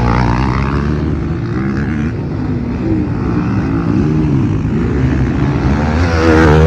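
Motocross bike engines revving, their pitch rising and falling repeatedly, with pop music underneath.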